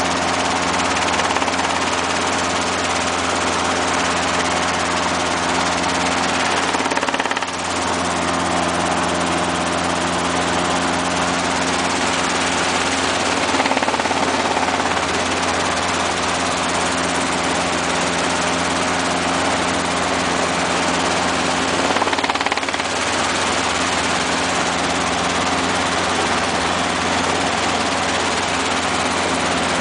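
Robinson R22 helicopter running steadily in flight: its four-cylinder piston engine hums and its rotors whir. The sound dips briefly twice, about seven and twenty-two seconds in.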